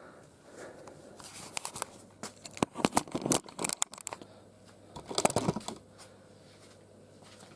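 Hands handling packaging and a toy: crinkling rustles and sharp clicks, in one cluster from about one to four seconds in and a shorter one around five seconds.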